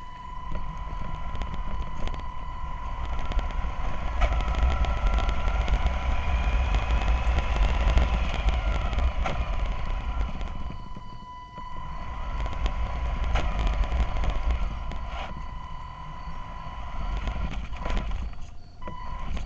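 Radio-controlled model bus driving along, its electric drive whining over a low rumble, with a steady high tone throughout. The whine rises in pitch over the first several seconds as the model speeds up, and the sound dips briefly around the middle.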